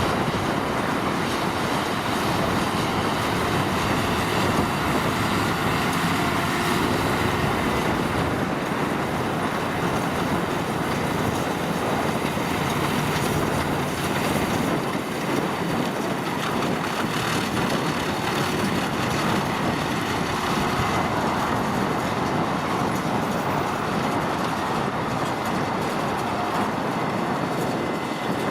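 Tractor and hay-making machinery working in the field: a steady, loud mechanical din with a continuous rattling clatter.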